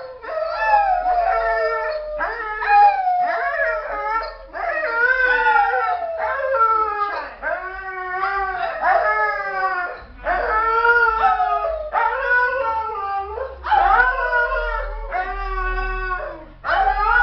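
A dog howling: a run of pitched calls, each about a second long and sliding down in pitch, one after another with short breaks.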